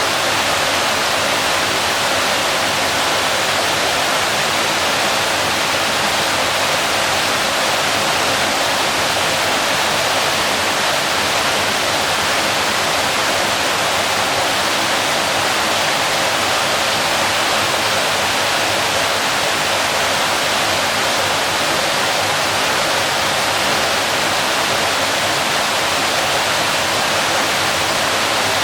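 Waterfall: water falling and splashing in a steady, unchanging rush, strongest in the middle and upper range.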